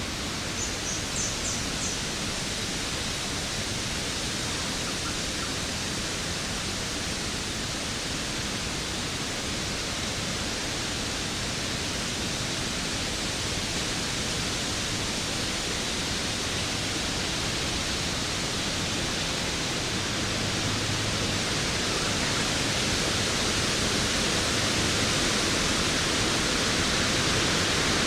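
Steady, even rush of falling water from a waterfall. Near the start there is a brief run of short, high chirps.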